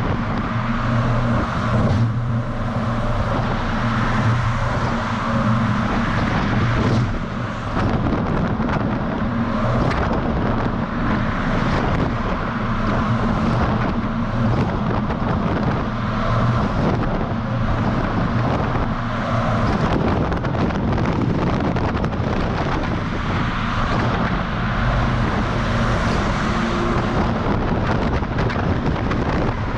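DAF XF semi-truck on the move, its diesel engine giving a steady low drone under rushing road and wind noise on a microphone mounted outside on the cab's side.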